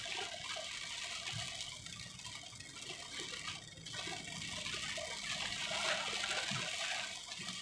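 Heavy rain and tyres on a water-covered road, heard from inside a moving car as a steady hiss of water.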